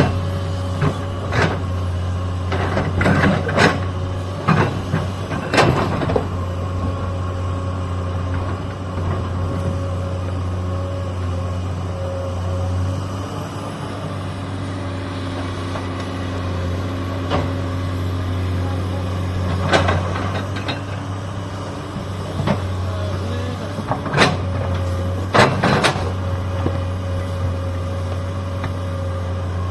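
Excavator's diesel engine running steadily under load, with a steady whine above it. Sharp knocks and clanks come in clusters in the first six seconds and again about twenty and twenty-five seconds in.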